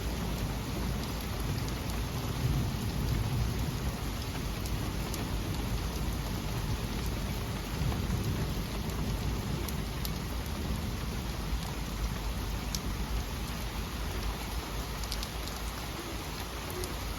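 Heavy rain falling steadily, with thunder rumbling low that swells about two to three seconds in and again near the middle. Sharp ticks of individual drops hitting a surface now and then.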